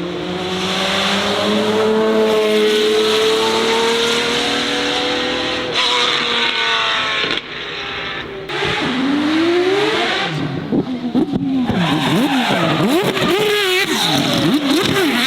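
Race car engine held at high revs, dropping off briefly after about six seconds. It then revs up and swings rapidly up and down in pitch, with tyres squealing as the wheels spin in a drift.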